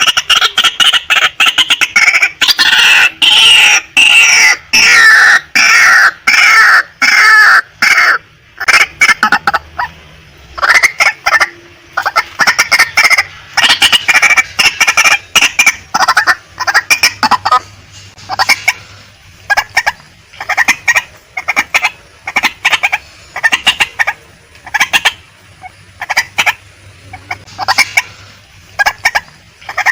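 Female white-breasted waterhen calling: loud repeated clucking notes, packed into a rapid run for the first eight seconds or so, then continuing as a steady stream of short notes several per second.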